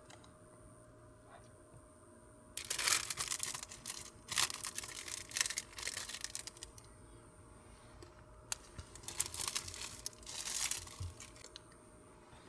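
Packaging being crinkled and torn open by hand, in several bursts of a second or two each, starting about two and a half seconds in.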